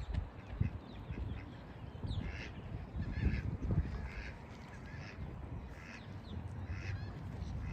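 Waterfowl calling, a string of short honking calls about once a second over a low rumble.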